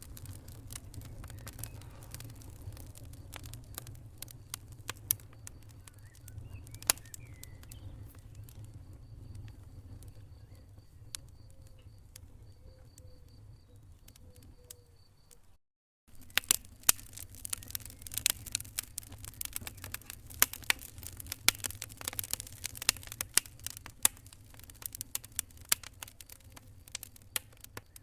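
Wood fire crackling in a fireplace: scattered sharp pops and snaps over a steady low rumble of flame. About halfway through it cuts out for a moment, then comes back with denser, louder crackling.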